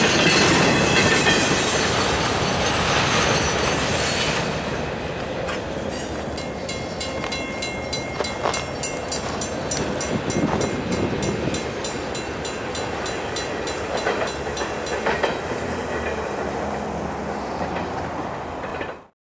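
Train cars rolling past, their wheels clicking over the rail joints in a steady rhythm. The rushing noise eases over the first few seconds, the clicking runs on, and the sound cuts off suddenly near the end.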